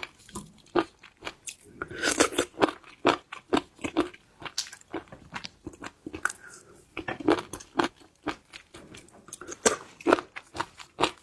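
Close-miked ASMR eating of seafood: irregular crunching and chewing with sharp cracks, bunched about two, seven and ten seconds in.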